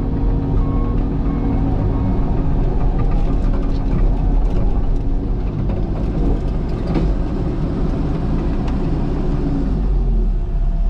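Diesel engine of a Cat excavator running under load as the machine tracks forward, with a steady whine over the engine noise that stops near the end.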